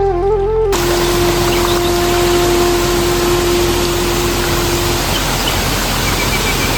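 A loud, steady rushing noise that cuts in abruptly under the background music, over a held flute note that fades out about two-thirds of the way through. A few faint bird chirps come near the end.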